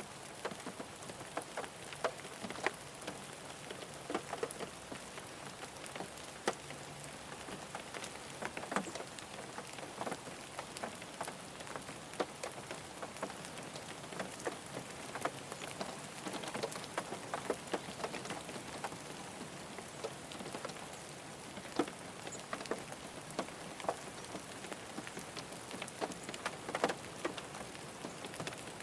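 Rain falling on a car, a steady patter with many separate drops striking the body.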